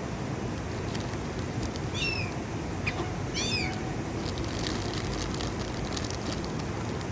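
Gulls calling: two short, high, squawking calls about a second and a half apart, over steady background noise.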